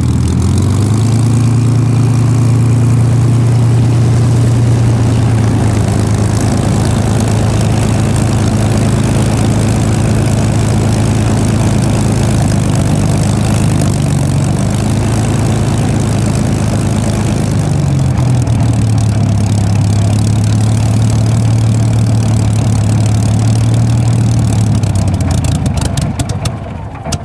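Rolls-Royce Merlin V12 of a Supermarine Spitfire running steadily at low revs, a deep even drone that dips in pitch briefly twice midway and fades out near the end.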